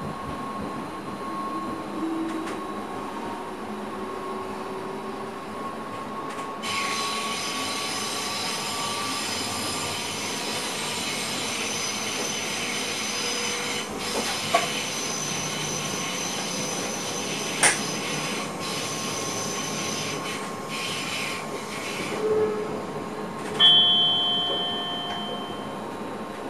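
Train running, heard from inside the driver's cab. About a quarter of the way in, a high-pitched wheel squeal sets in and carries on for most of the rest. A sharp click comes past the middle, and near the end a loud short beep sounds.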